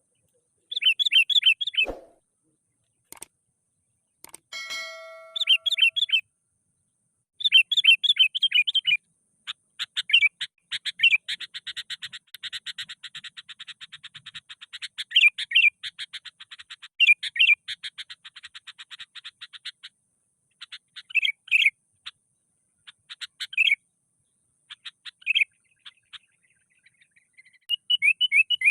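Sooty-headed bulbul singing hard: repeated short phrases of quick, bright notes, with a long fast chattering run in the middle, the agitated song of a bird challenging a rival. A single thump sounds about two seconds in.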